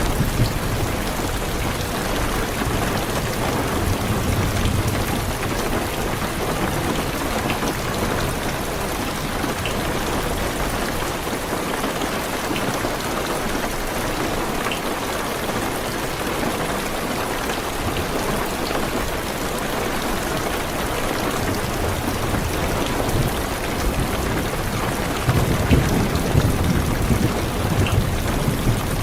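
Heavy, steady rain drumming on a car's roof and windows, with low rolling thunder rumbling about four seconds in and again, louder, near the end.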